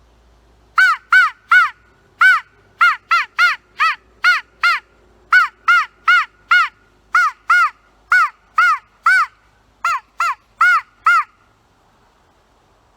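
A hand-blown DIY crow call sounding a long series of short caws in quick runs, about two to three a second with brief pauses between the runs. The caws are clean and pitched, with little rasp.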